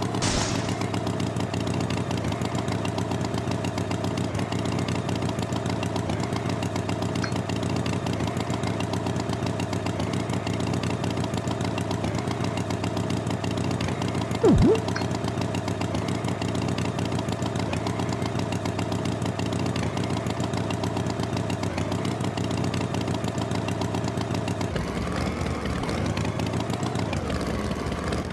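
Tractor engine running steadily at a constant pace, with one short loud thump about halfway through and the engine note shifting near the end.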